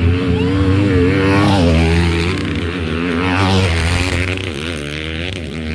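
Motocross bike engines revving, their pitch rising and falling repeatedly as the riders work the throttle and shift. More than one bike is heard at once.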